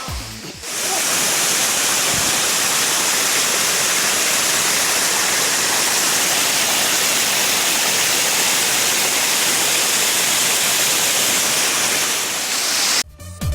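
Waterfall: falling water rushing in a steady, unbroken noise that starts just under a second in and cuts off abruptly near the end.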